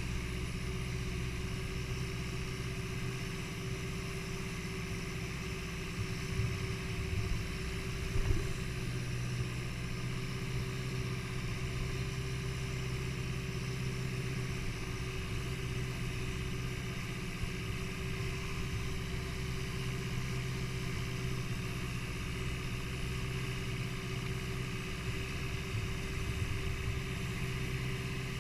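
A tour boat's engine running at a steady pitch, a low drone with a few brief louder knocks about six to eight seconds in.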